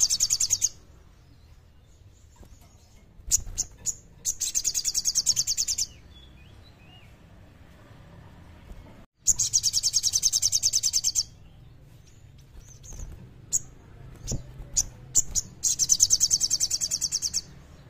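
Sogon singing in fast, clear trills, the 'gacor kleper' song: three long, rapid, high trills of about two seconds each, with short sharp chirps in between.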